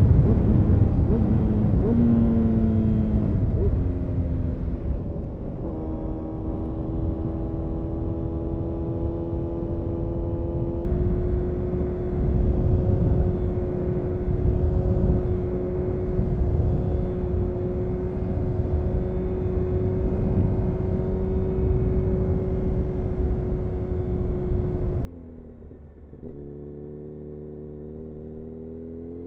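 A 2000 Honda CBR929RR Fireblade's inline-four engine, fitted with an Erion full racing exhaust, running on the move. The engine note falls over the first few seconds as the bike slows, then holds steady at a cruise. About 25 seconds in the sound suddenly drops and goes duller, and near the end the pitch climbs again as the bike accelerates.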